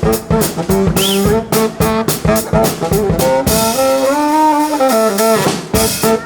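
Live brass band playing with a drum kit: trombones and trumpets over a steady drum beat. Past the middle the drums stop while the horns hold a chord that swells up and sinks back, then the beat comes back in near the end.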